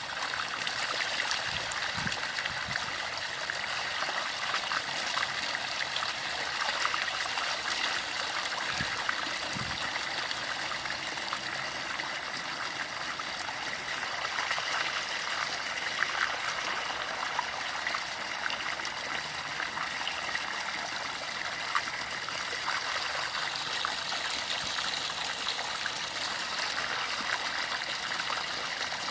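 Steady running water, a continuous flow with many small irregular splashes throughout.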